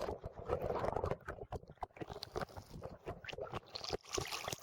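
Irregular knocks, rubbing and low rumble from a hand-held camera being handled while the operator plays a fish, with water moving around him.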